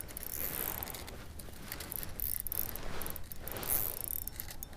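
Spinning reel on an ice-fishing rod being worked, a light mechanical clicking rattle with rustling handling noise.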